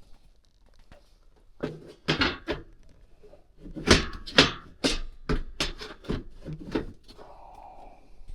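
Sheet-metal furnace side panel being fitted back into place: a run of irregular knocks and metallic clatters, loudest around the middle.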